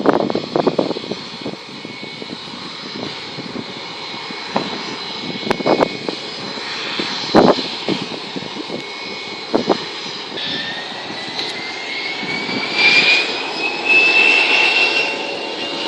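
Jet airliner's engines running, their high whine rising slowly in pitch and growing louder from about two-thirds of the way in, as the engines spool up for takeoff. Irregular low thumps come through in the first part.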